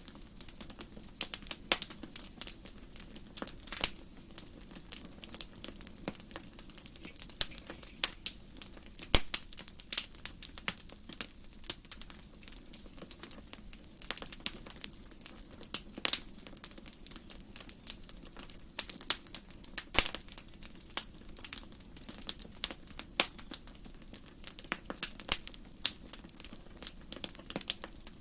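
Fire in a fireplace crackling, with irregular sharp pops and snaps, several a second, over a faint steady low background.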